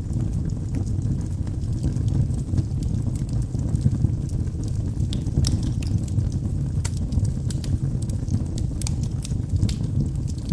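Logs burning in a fireplace: a steady low sound of the flames with irregular sharp crackles and pops.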